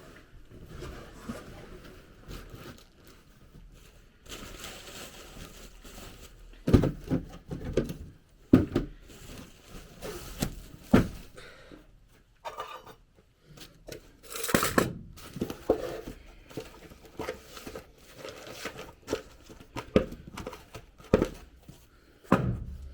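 Irregular knocks and thuds with rustling and crinkling between them, as of things being handled and set down.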